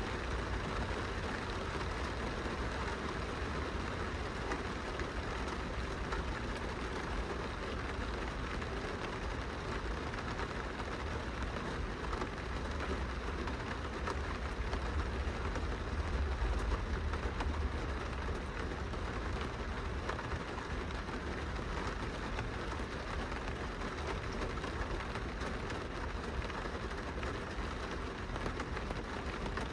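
Steady rain pattering on a glass window, with a constant low rumble underneath.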